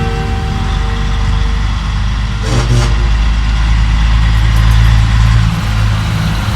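A heavy truck engine running loud and low and holding steady, with a brief rattle about two and a half seconds in.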